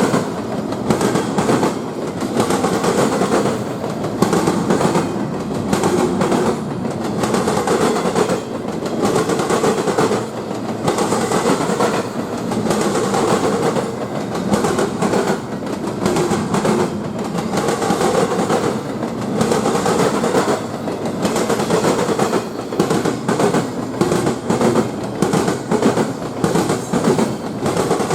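Railroad cars rolling past, their wheels clicking steadily over the track.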